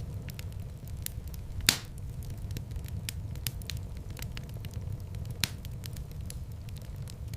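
Wood fire in a fireplace crackling: scattered snaps over a steady low rumble of flames, with one loud pop about a second and a half in.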